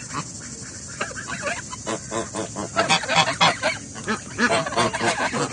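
A flock of waterfowl, ducks among them, calling: many short calls overlapping, getting busier and louder about halfway through.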